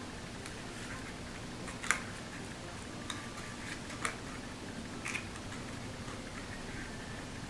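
Cardstock pieces being handled and pressed into place, giving a few short taps and rustles, the sharpest about two and four seconds in, over a steady low background hum.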